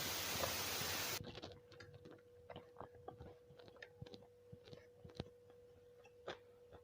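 A person chewing a mouthful of nasi kucing, rice with small side dishes, with irregular wet clicks and smacks of the mouth. A steady hiss cuts off suddenly about a second in, and a faint steady hum runs underneath.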